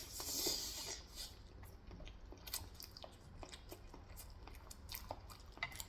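Close-miked mouth sounds of a person eating: chewing and biting with many small, sharp crunches and clicks at an uneven pace, after a breathy rush of noise in the first second.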